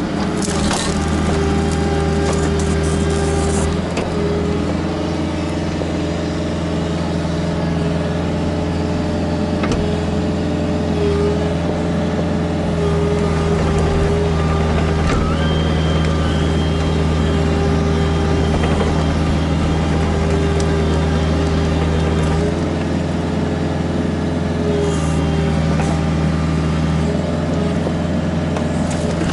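Kubota KX121-3 mini excavator's diesel engine running steadily under working load, its note shifting a few times as the hydraulics are worked. A brief clatter of scraping and knocking near the start.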